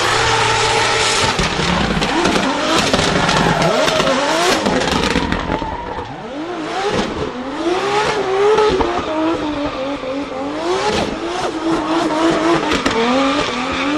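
Race car engines revving on track, their pitch rising and falling over and over through gear changes and throttle lifts, with more than one engine tone sounding at once.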